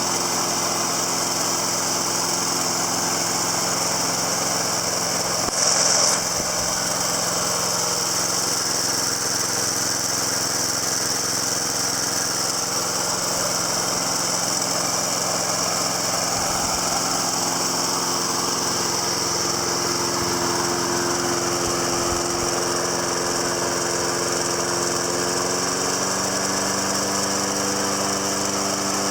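Snapper Big 6 walk-behind mower's 6-horsepower Briggs & Stratton engine running steadily and smoothly just after an electric-key start. There is a brief louder rush about six seconds in, and the engine speed steps up slightly near the end.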